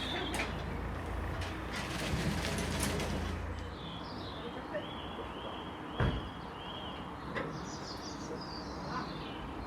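A small bird singing in short, evenly repeated chirps from about four seconds in, with a few sharp knocks, the loudest about six seconds in. A low rumble stops shortly before the birdsong begins.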